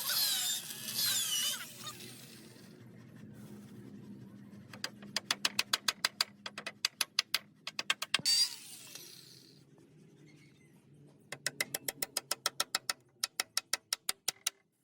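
Woodworking hand-tool sounds: a short scraping rasp at the start and again about eight seconds in, with two runs of rapid, even clicking, about seven clicks a second, in between and near the end.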